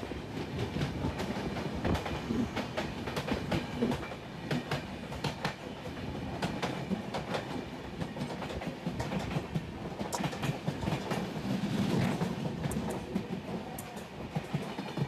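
Passenger express train running on the track: a steady low rumble with many irregular sharp clacks as the wheels pass over rail joints.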